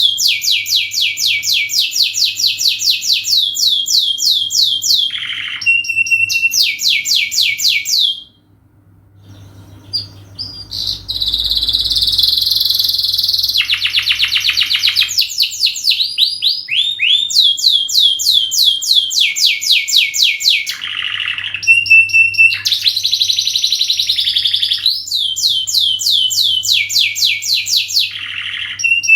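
Domestic canary singing a long, continuous song of fast repeated trills and rolls, pausing briefly about eight seconds in before going on.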